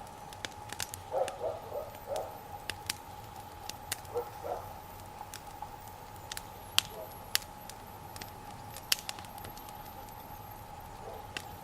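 Wood fire crackling, with sharp pops scattered through and the loudest a little before and after seven seconds in and about nine seconds in. Several short runs of low calls from a bird come a few times.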